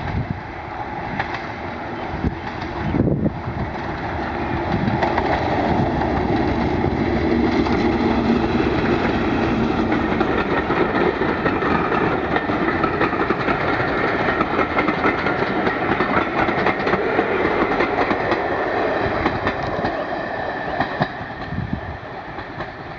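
A train passing close by. The rumble and clatter of its wheels on the rails build up over a few seconds, hold loud, and fade away near the end.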